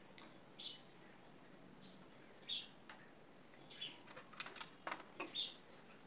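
A small bird chirping, short falling chirps repeated about once a second. A few light clicks and rustles come from the sewing machine's metal parts being wiped with a cloth, bunched together about four and a half seconds in.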